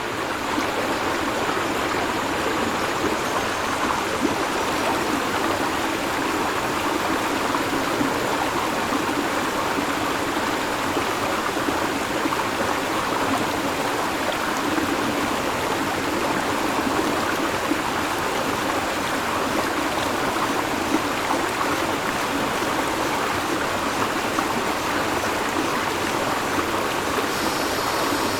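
River water flowing steadily, a constant rushing and babbling. Near the end, cicadas start up with a high, steady buzz over the water.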